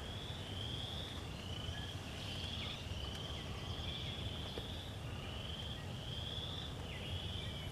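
A high, buzzy trilling call repeats about once a second from a calling animal, over a steady low rumble of outdoor ambience.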